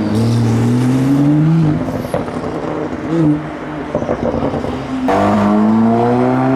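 Car engine revving up as a car accelerates away, its pitch rising for about a second and a half. About five seconds in, an engine accelerates hard again, rising steadily in pitch.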